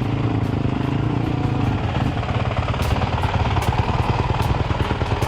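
Motorcycle engine running steadily with a fast, even firing beat.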